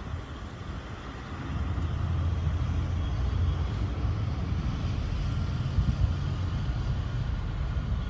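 Road traffic passing close by: a steady low rumble of vehicles that swells about a second and a half in and then holds.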